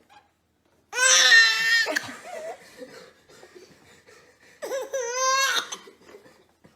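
A small child's voice: two long, high-pitched wavering cries, about a second in and again near the end.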